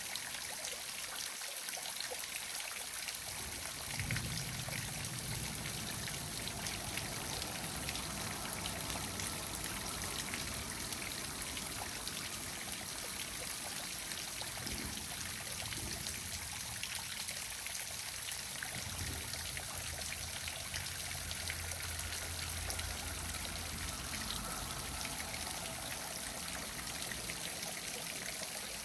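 Small waterfall splashing and trickling steadily, with a low rumble that rises and falls.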